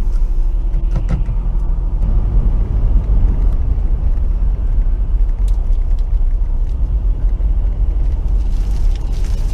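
Steady low engine and road rumble of a vehicle being driven on a snowy road, heard from inside the cab.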